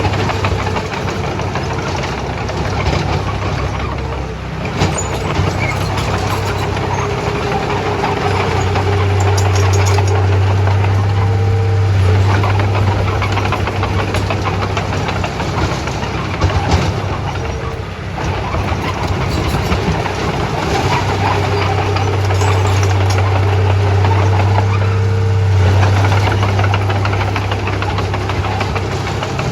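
Komatsu D31A bulldozer's diesel engine running under load, its low drone growing louder and easing off several times as the dozer works, with scattered clanks and knocks.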